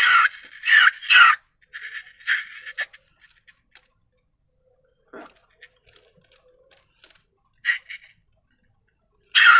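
Slime being handled, in a series of short squishing and crackling sounds a fraction of a second each: several in the first three seconds, a quiet stretch, then more near the end.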